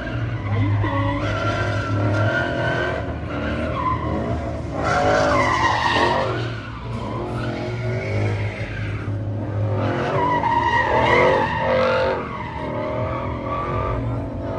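Drift car's engine revving up and down again and again as it slides through the course, with tyre skidding noise under it.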